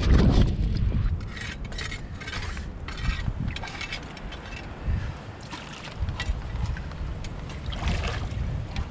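Strong wind buffeting the microphone as a steady low rumble, with scattered light clicks and knocks, mostly in the first few seconds and again near the end.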